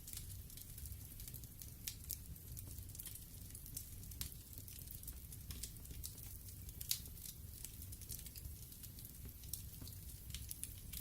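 Wood fire burning in a fireplace: irregular crackles and sharp pops over a low, steady rumble of the flames.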